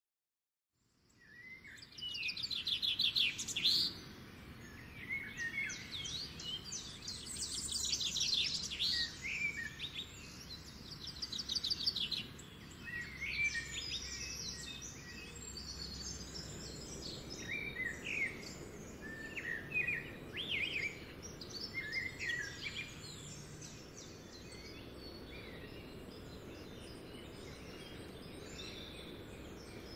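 Small birds chirping and calling over a steady low outdoor background. The birdsong fades in after about a second of silence and thins out near the end, leaving only the background.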